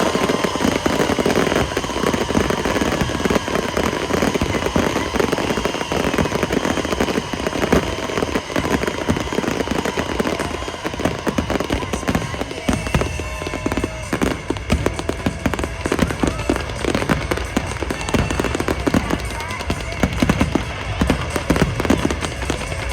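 Fireworks display: aerial shells bursting in quick, continuous succession, a dense run of bangs and crackles, with music playing along.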